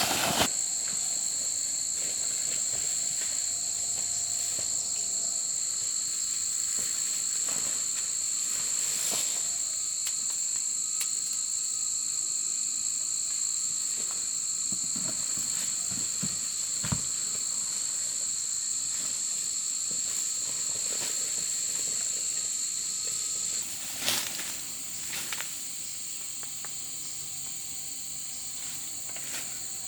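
Insects in the forest giving a steady, high-pitched drone, which drops a little in level about three-quarters of the way through. A few faint knocks come at that point.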